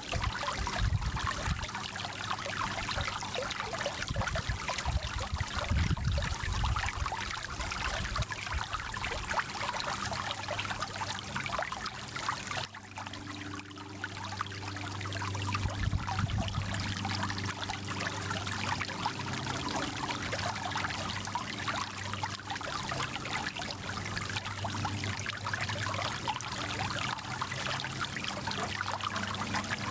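Small mountain stream flowing steadily, its water noise dipping briefly about thirteen seconds in.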